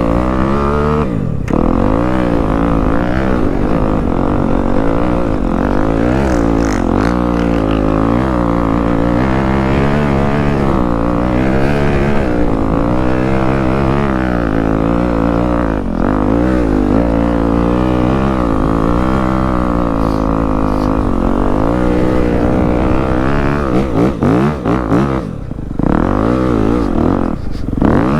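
Dirt bike engine being ridden, its pitch rising and falling over and over as the throttle is opened and closed, with a few short drops in level near the end as the throttle comes off.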